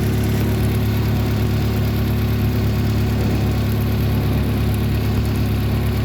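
Toyota 4E-FTE 1.3-litre turbocharged four-cylinder engine idling steadily.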